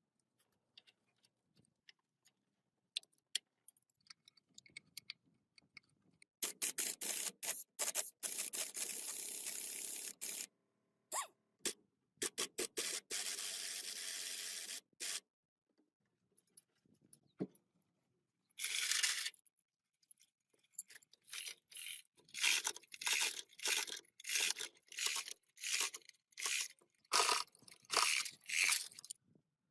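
Scraping and rubbing on a surface. There are two longer stretches of steady scraping, then near the end a run of short back-and-forth strokes, about two a second.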